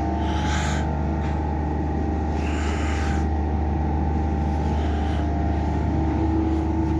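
A running engine's steady low drone, with two brief hissy noises about half a second and two and a half seconds in.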